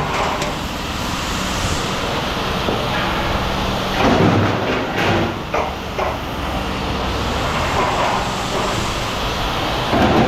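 An engine running steadily, with a few sharp knocks about four and five seconds in and again near the end.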